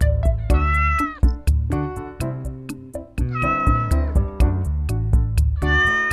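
A domestic cat meowing three times, each meow short and bending in pitch, over background music with a steady beat.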